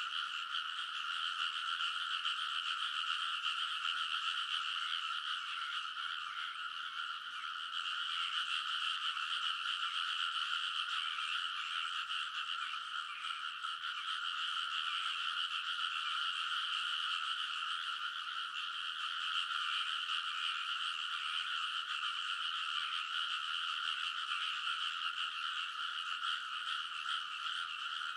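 Many frogs calling at once in a dense, steady chorus, a continuous wall of croaking with no pauses.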